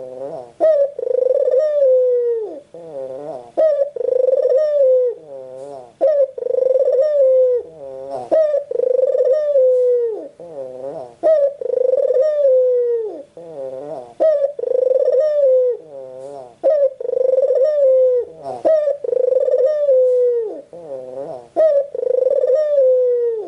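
White Barbary dove (white ringneck dove) cooing over and over: rolling, wavering coos that each end in a falling glide, about one every two seconds.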